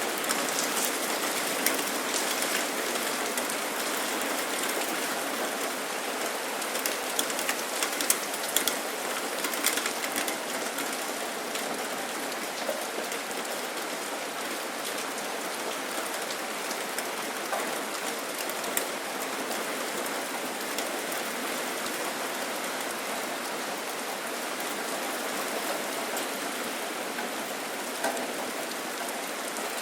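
Steady rainfall: an even hiss of rain with the sharp clicks of individual drops hitting a hard surface, thickest around the first third and tapering slightly after.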